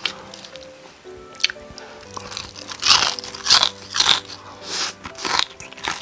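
Crisp crunching bites and chewing of Korean market-style fried chicken. After a single crunch at the start, a run of loud crunches comes from about two seconds in, loudest in the middle.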